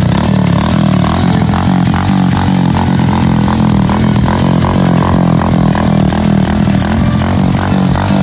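Kawasaki Aura 110 single-cylinder four-stroke underbone engine, bored to 56 mm with a lightened flywheel, running steadily with an even pulsing beat.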